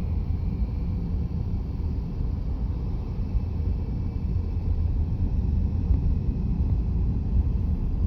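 Steady low rumble of a car driving along a city road, heard from inside the cabin: tyre and road noise.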